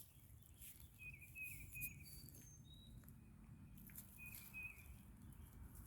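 Faint songbird calls: a run of three short whistled notes about a second in, a few single higher notes, then two more short notes past the middle, over quiet woodland background with scattered faint ticks.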